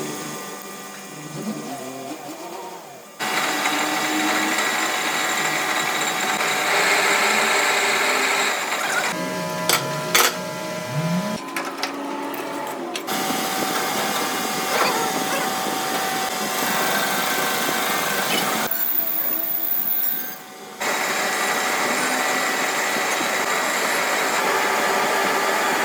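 Workshop power tools and machinery running steadily with a whine, in several clips cut together abruptly; the sound changes suddenly at each cut.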